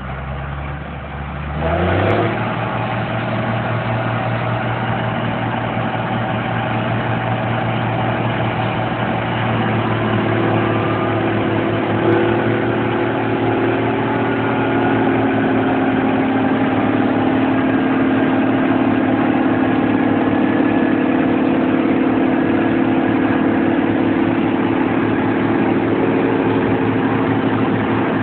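Case 2390 tractor's turbocharged diesel engine, straight-piped, revving up sharply about two seconds in and then running steadily at high speed. Further steady higher tones join from about ten seconds in.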